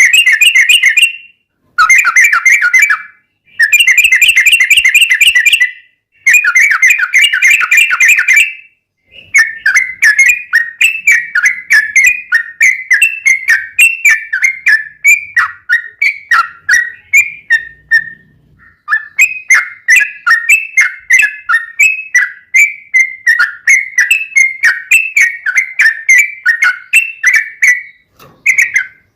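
Yellow-vented bulbul (trucukan) singing a fast, continuous chattering song. It opens with four short, dense phrases, then two long runs of rapid notes that rise and fall in pitch, with a brief break between them.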